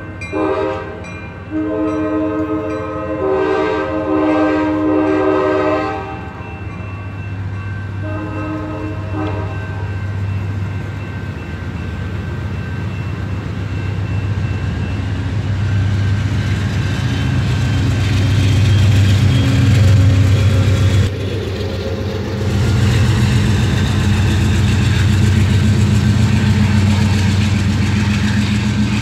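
Amtrak Pacific Surfliner train departing: its horn sounds a chord in several blasts, the longest about two to six seconds in and a short one near ten seconds. Then the low rumble of the P42DC diesel locomotive's engine builds and stays loud as the train pulls away.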